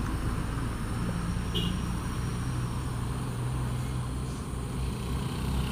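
Heavy road vehicle's engine running as it passes on the road, a steady low drone with tyre and traffic noise.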